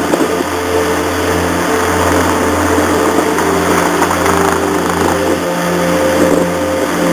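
Ferry's engines and machinery running steadily: a low drone with several hum tones that shift a little, over a broad rushing noise.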